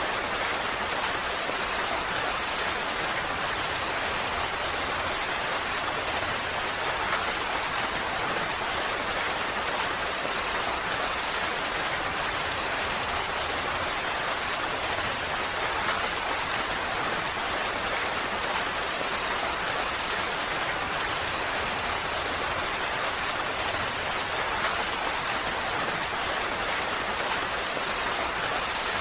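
Steady rain falling, an even hiss with scattered drop ticks and no letup.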